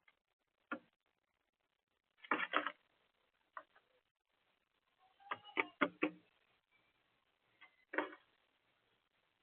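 Birds at a garden feeder making sharp taps and clicks in four short clusters, with a faint short high chirp or two near the end.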